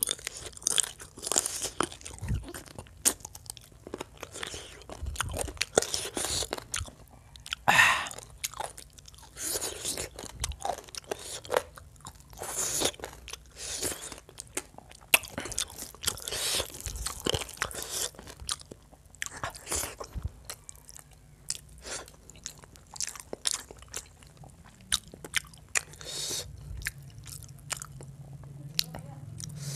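Close-miked chewing and biting of a man eating chicken curry and rice with his hand: many short, irregular mouth clicks and smacks throughout.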